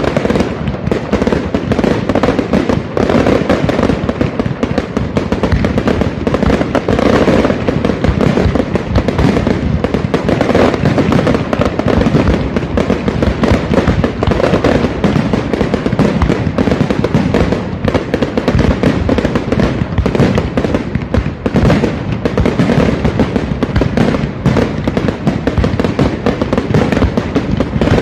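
Professional fireworks display at full barrage: a continuous dense rattle of bangs and crackles from many shells and low-level effects going off at once, with no pauses.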